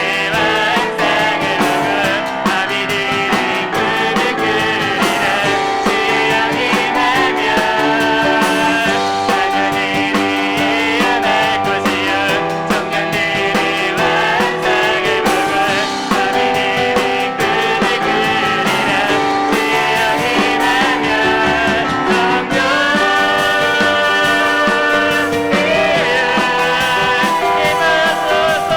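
A live church praise band of piano, drums and vocalists plays and sings a worship song at a steady loud level.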